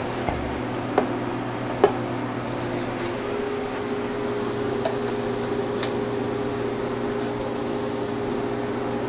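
Steady electrical machine hum in a small room. In the first two seconds a few light metallic clinks come as a stainless food tray is slid off the freeze dryer's shelf.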